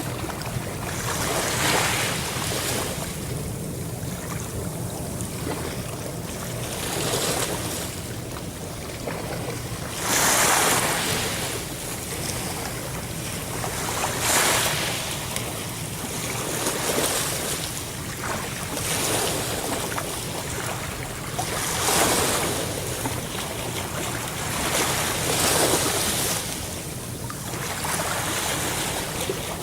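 Ocean waves breaking and washing on the shore in a steady, repeated rhythm, a louder surge every two to four seconds over a constant rushing of surf.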